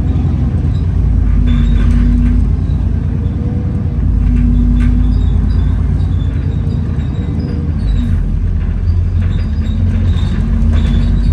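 Alexander Dennis Enviro400 double-decker bus heard from inside on the move: a steady low drone from the engine and loud axles, with a hoover-like whine that comes and goes a few times. Light rattles sound over it.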